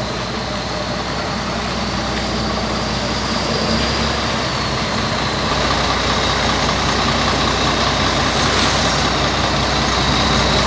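Scania 124 tour bus's 360 hp diesel engine, newly fitted with a turbocharger, running steadily and growing slowly louder, with a thin high whine above the engine note.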